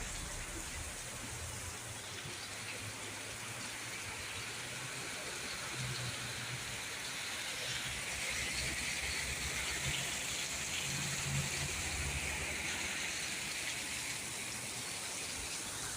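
Steady rain falling, an even hiss, with a faint low hum coming and going underneath.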